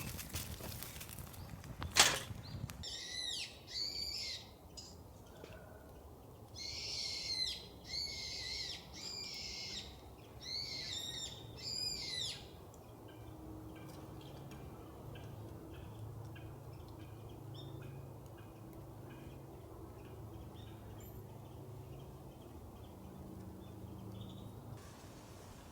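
A sharp knock about two seconds in, then a wild bird calling in several bursts of high, arching notes for about ten seconds. After that only a faint low hum and faint ticking remain.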